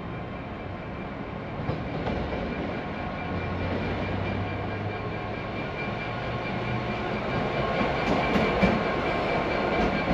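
A train running past on the rails, growing louder, with a steady low hum and a few sharp wheel clicks near the end.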